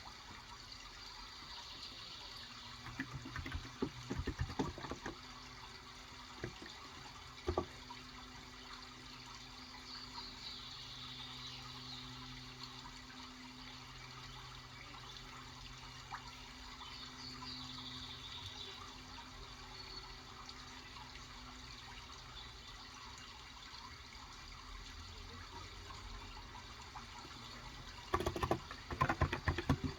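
Typing on a Cox Endeavor electro-capacitive keyboard with 35 g switches: short runs of keystrokes a few seconds in, a single stroke or two around seven seconds, and a quick burst near the end. Running water goes on steadily underneath, with faint birdsong now and then.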